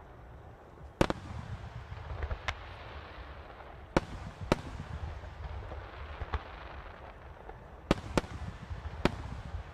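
Aerial firework shells bursting in a starmine sequence: a sharp bang about a second in, two close together around four seconds, and three more near the end, with low rumbling and crackling between the bangs.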